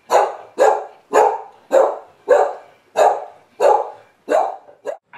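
Hound dog barking repeatedly in a steady rhythm, about one bark every 0.6 s, with a short final bark near the end. This is the anxious barking of a dog left alone with separation anxiety.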